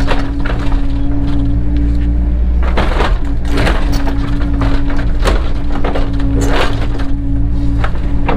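Cat 307 excavator running steadily with a constant hum, while irregular cracks and knocks from its work in the ground come through about ten times.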